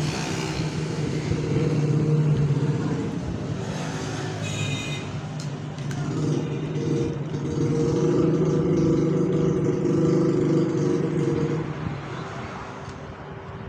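Small DC electric motors of a toy mini tractor running with a steady hum that swells and fades in loudness, with a brief high ringing tone about four and a half seconds in.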